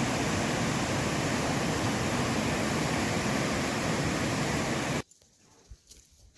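Steady rushing noise, even and unchanging, that cuts off abruptly about five seconds in, leaving a faint quiet background with a few small ticks.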